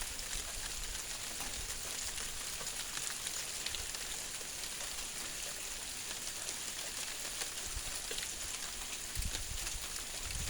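Hail falling steadily: a dense patter of many small ticks over a constant hiss. Wind buffets the microphone briefly near the end.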